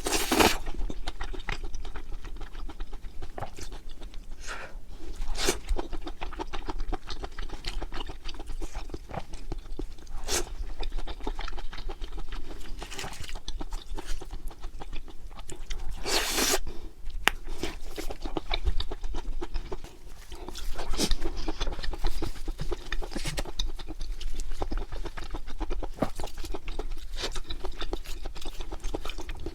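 Close-miked chewing of grilled pork large intestine (makchang) and cheese: a steady run of wet mouth clicks and smacks, with a few louder bites, near the start, about halfway and near the end.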